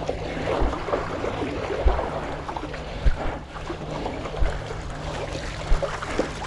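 Water sloshing and splashing around a stand-up paddleboard on choppy sea, with wind buffeting the microphone in irregular low thumps.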